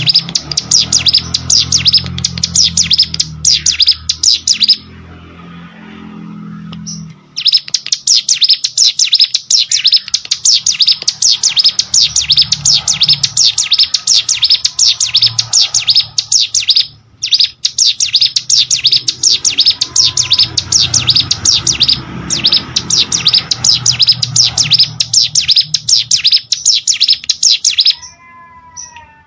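Ciblek sawah singing: long, very fast runs of sharp high chirps, broken by a few short pauses.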